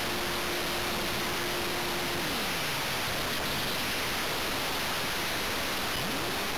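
Multiplex Blizzard R/C model plane's electric motor heard from an on-board camera under a steady hiss: a steady whine that drops in pitch and fades about two seconds in as the throttle is cut, then rises back to the same pitch near the end as power comes back on.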